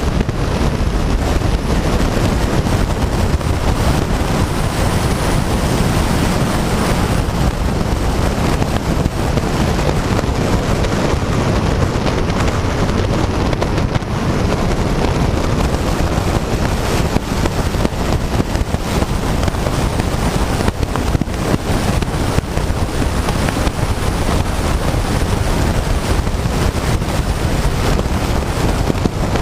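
Wind noise buffeting the microphone of a camera mounted on a moving motorcycle, a loud, steady rush with the bike's running heard only faintly underneath.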